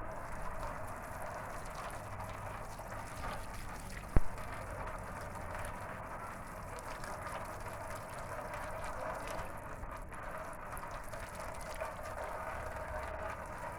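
Water running with a steady hiss, and a single sharp knock about four seconds in.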